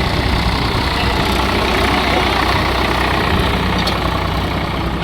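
Tractor diesel engines running steadily and loudly, a continuous low engine rumble.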